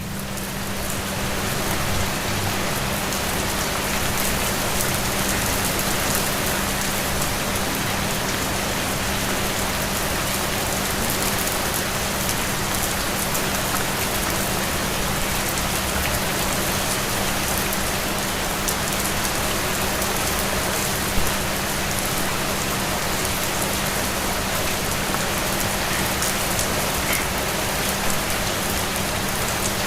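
Steady rain falling on a hard surface, a dense hiss with the patter of individual drops, fading in over the first couple of seconds and then holding even. A steady low hum runs underneath.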